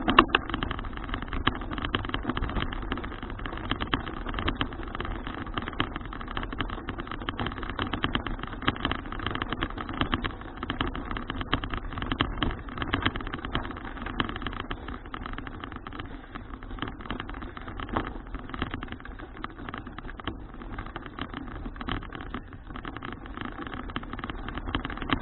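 Ride noise from a folding bicycle on the road: a steady rush of rolling noise with many small rattles and knocks.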